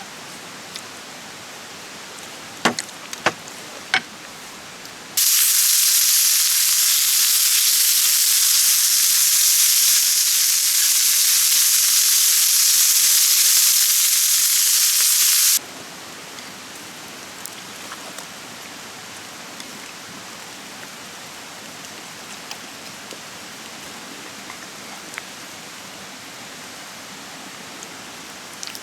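Meat sizzling over an open wood fire: a loud, bright hiss that starts abruptly about five seconds in and cuts off about ten seconds later. Before and after it, a quieter steady hiss with scattered small pops and a few sharp cracks near the start, typical of a campfire crackling.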